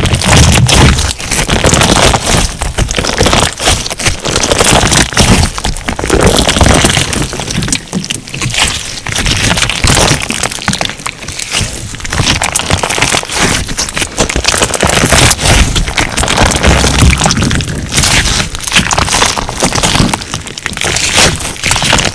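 Crunch slime being squeezed and pressed by hand, a dense run of crackling and popping.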